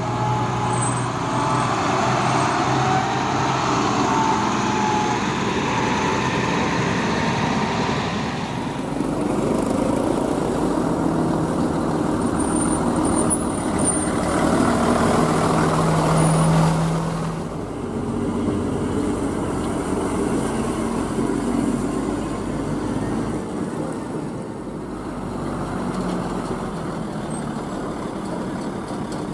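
Heavy diesel machinery engine running steadily, with the sound changing abruptly about a third and about two thirds of the way through.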